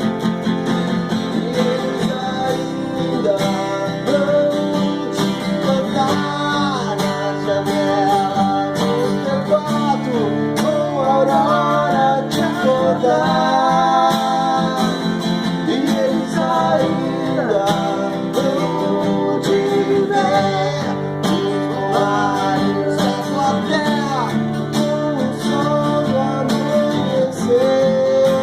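Acoustic guitar playing a song: steady strummed chords with a melody line gliding up and down over them.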